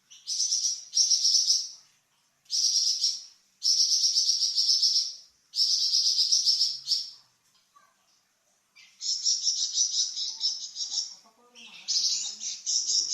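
A songbird known in the Indonesian songbird hobby as 'flamboyan' singing its high, rapid buzzing trills (nyecret): about seven phrases of fast repeated notes, each a second or two long with short pauses between, the last two drawn out longer.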